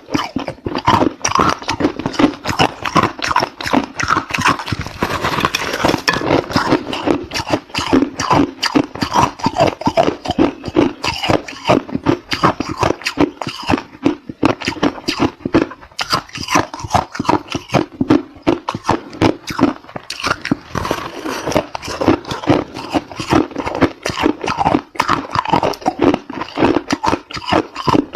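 Close-up crunching of hard ice being bitten and chewed, a fast, continuous run of sharp crunches.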